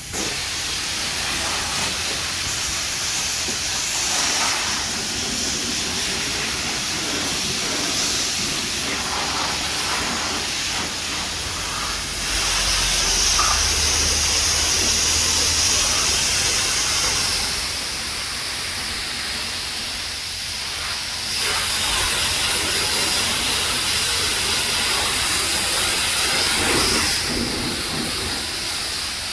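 High-pressure spray wand of a coin-operated self-serve car wash spraying water onto a car: a steady hiss that gets louder about twelve seconds in, eases off, and rises again for a stretch near the end as the spray shifts.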